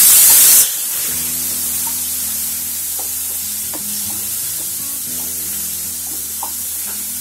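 Chopped tomatoes sizzling in hot oil in a kadhai: a loud sizzle from the fresh tomatoes hitting the oil that drops off sharply within the first second, then a softer steady sizzle as they are stirred with a wooden spatula.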